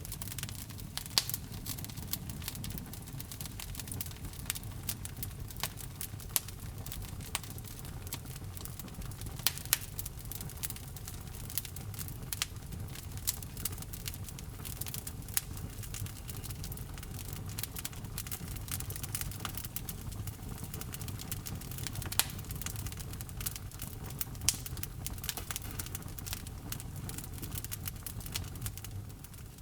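Wood fire in a fireplace crackling, with a steady low rumble of flame and frequent sharp pops, a handful of them louder than the rest.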